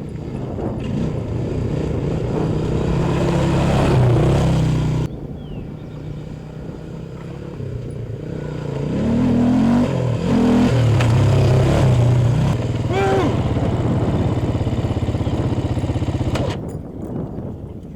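Small pit-bike motorcycle engines running and revving, rising and falling in pitch, with abrupt changes about five seconds in and again near the end.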